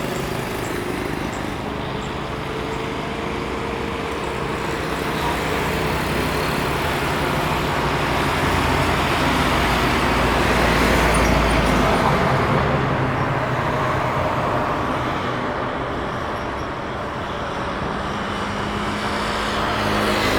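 Steady engine rumble with a broad noise like traffic, growing louder with a deep low rumble about halfway through, then easing off.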